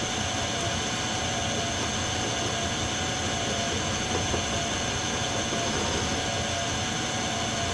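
Metal lathe running steadily while its cutting tool turns down a fitting, with a constant machine whine.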